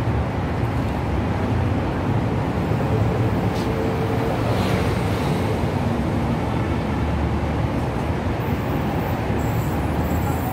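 Steady low rumble of an approaching diesel-hauled express train, mixed with nearby traffic. A faint high squeal of train wheels comes in near the end.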